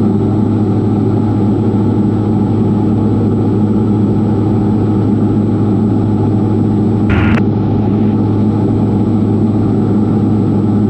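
Diamond DA40 NG's engine and propeller droning steadily in flight, as heard in the cockpit. A brief burst of noise comes about seven seconds in.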